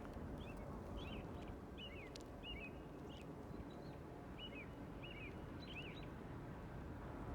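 A bird repeating short, falling chirps about once or twice a second, over a low steady outdoor rumble.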